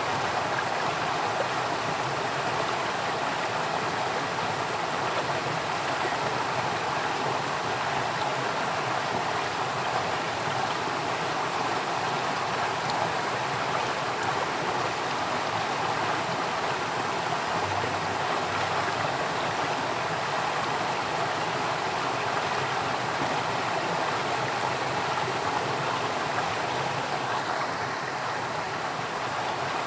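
A stream of water flowing steadily, an even and unbroken rush with no pauses.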